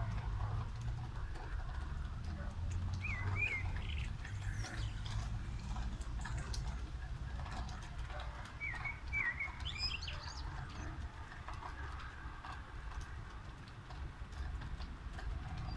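Steady rain with small drips ticking, over a low steady rumble. A small bird chirps in two short bouts, about three seconds in and again around nine to ten seconds in.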